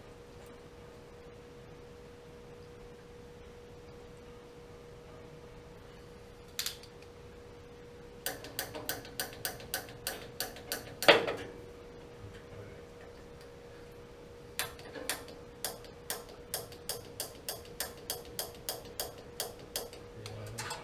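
Water heater pilot spark igniter clicking rapidly, about three to four sparks a second, in two runs with a pause between them, and one louder knock in the middle. The pilot is being sparked after a rebuild of the burner assembly. A faint steady hum runs underneath.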